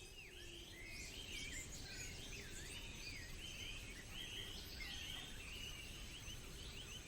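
Faint forest ambience: birds chirping and warbling in a run of short, quickly repeated phrases over a steady low hiss.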